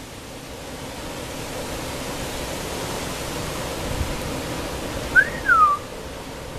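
Strong wind howling, a steady rushing noise that builds over the first few seconds. Near the end a single short whistle rises and then falls.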